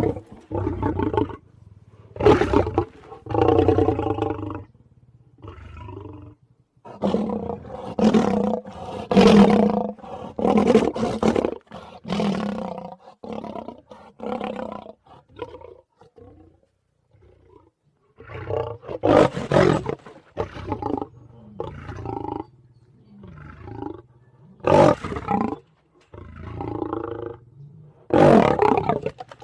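A string of deep, monstrous demon-like roars and growls, used as a sound effect, about twenty separate bursts of a second or two each, with a short pause about halfway through.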